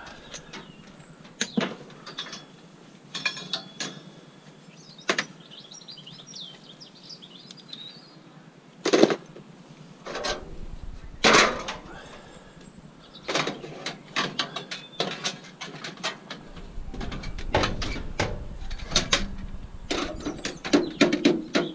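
Pieces of scrap metal being handled and sorted: irregular clanks and knocks, the two loudest near the middle. A bird chirps briefly a few seconds in.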